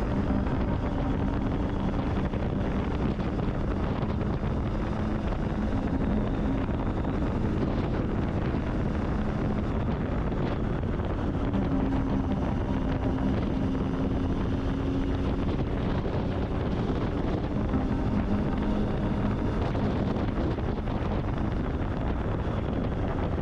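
Triumph Tiger 800's three-cylinder engine running under way, with heavy wind rush on the microphone. The engine note steps up and down a few times as the revs change.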